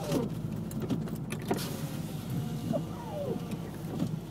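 2009 Subaru WRX's turbocharged flat-four engine running steadily while the car is driven around on snow. A few brief falling tones and several sharp clicks sound over it.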